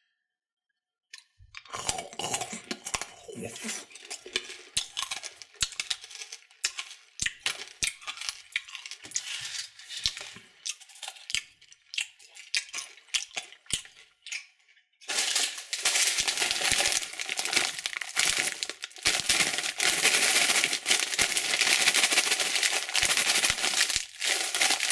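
Candy wrappers crinkling and tearing as candy is unwrapped and handled, with small clicks and clinks of pieces being moved. It starts after a short silence as scattered crackles, then turns into dense, continuous crinkling about halfway through.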